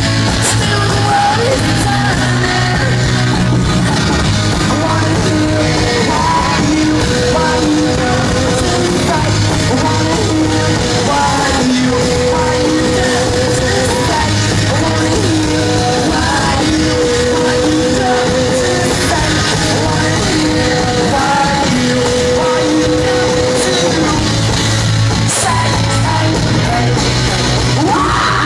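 Live rock band playing loud with electric guitars, drums and sung vocals. Long held sung notes recur every few seconds over the band.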